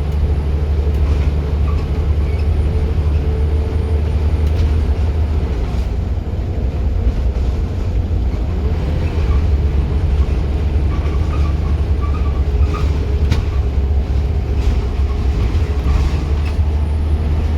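Scania single-deck bus (Wright Solar body) under way, its engine and driveline running with a steady low rumble and a faint whine, and scattered rattles and knocks from the bodywork throughout.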